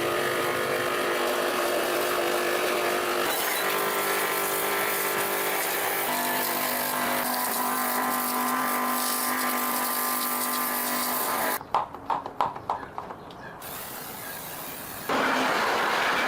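Steady running machinery, heard in a few spliced clips whose pitch changes at each cut, with a run of sharp knocks near the end.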